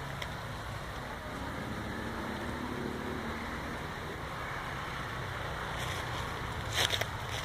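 Steady low rumble of a distant motor vehicle, its engine note rising and falling faintly in the middle, with a few light crackles near the end.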